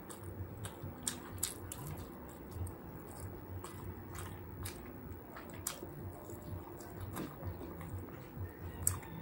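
Close-miked chewing of roast chicken: soft, irregular chewing thumps with wet mouth clicks and smacks throughout.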